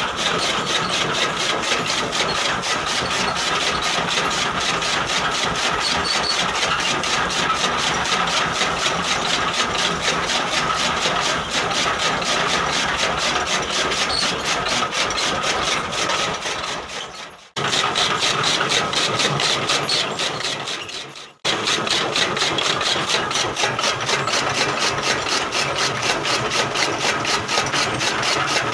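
Massey Ferguson 240 tractor's three-cylinder diesel engine running steadily while it drives a chaff cutter, with a fast, even pulsing throughout. Twice, about two-thirds through, the sound fades away and then comes back suddenly.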